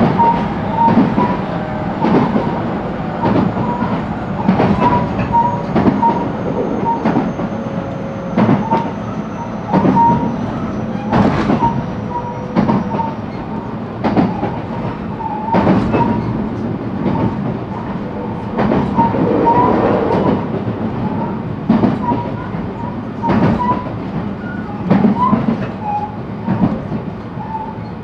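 JR West 223-series electric train running at speed, heard from inside the motor car KuMoHa 223-2079: a steady rumble with the wheels knocking over rail joints about every one to two seconds.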